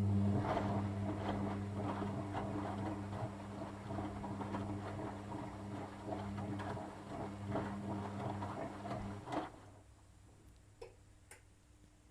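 Washing machine drain pump running with a steady hum while water gurgles and crackles through it, then cutting off about nine seconds in with a knock, followed by a couple of faint clicks.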